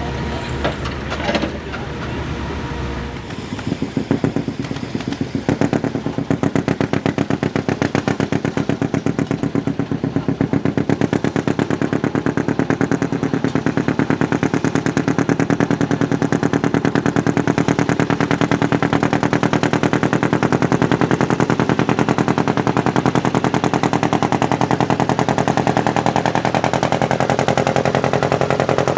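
Farm tractor engine pulling under full load, its exhaust giving a rapid, loud train of firing pulses. The pulses set in about three seconds in, build over the next few seconds, then hold steady.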